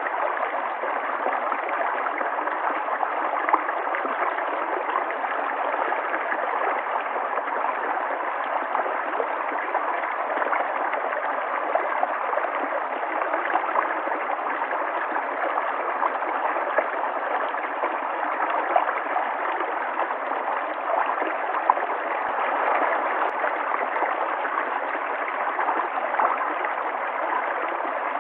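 River water flowing over rocks, a steady rush with small splashes and gurgles.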